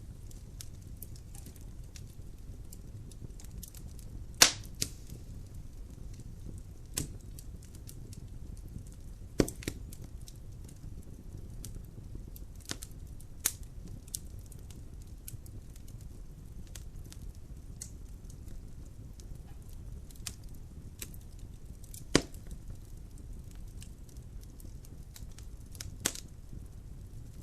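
Wood logs burning in a fireplace: sharp, irregular crackles and pops over a steady low rumble of the fire. The loudest snaps come about four seconds in and again about two-thirds of the way through.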